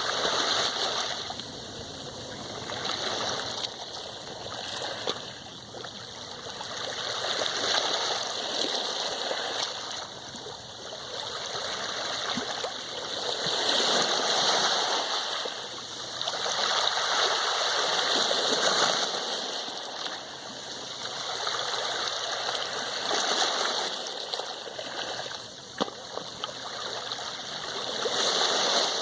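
Sea waves washing on a shore, a continuous hiss of surf that swells and falls away every few seconds.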